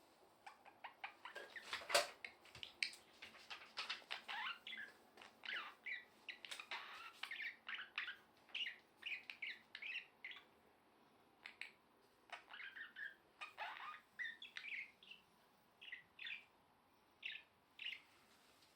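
Budgerigar warbling: a fast chatter of short chirps, clicks and squeaks, with a brief pause about ten seconds in.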